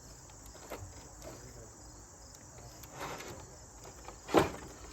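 Crickets chirping steadily in the background, with a few light clicks of handling and one sharp knock about four and a half seconds in.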